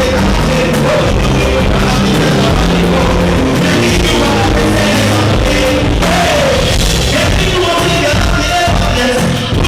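Live band playing a song with a vocalist singing over it, loud and continuous. The recording is overloaded: the venue's sound system blew out the camera microphone.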